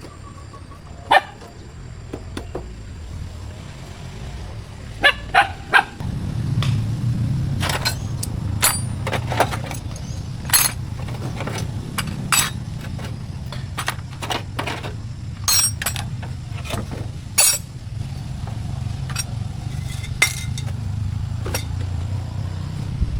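An engine running with a steady low rumble that grows louder about six seconds in. Sharp metallic clinks and clicks sound on top of it every second or so.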